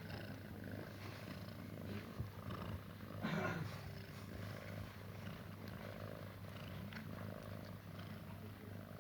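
Domestic cat purring steadily, with a brief louder sound about three and a half seconds in.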